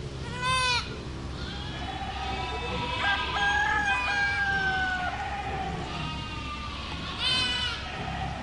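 Herd of goats bleating: a short, quavering bleat about half a second in and another near the end, with longer overlapping calls in between.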